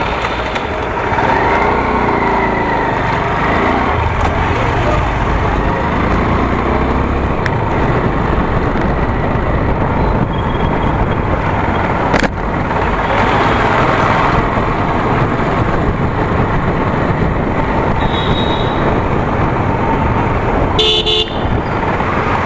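Motorcycle riding on the road: engine running under a steady rush of wind and road noise, with a brief vehicle horn toot near the end.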